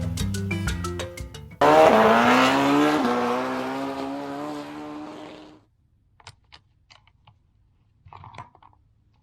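Short xylophone-like tune that cuts off about a second and a half in, replaced by a sudden loud car sound effect whose pitch dips and then climbs before fading away over about four seconds. A few faint small clicks follow near the end.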